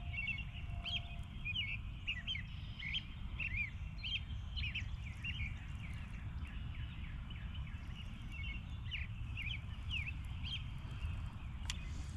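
Songbirds chirping: many short, quick calls one after another, several birds overlapping, over a steady low rumble.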